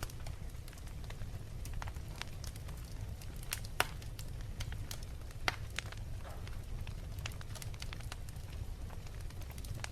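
Fireplace fire crackling: scattered sharp pops over a steady low rumble of the flames, with two louder pops near the middle.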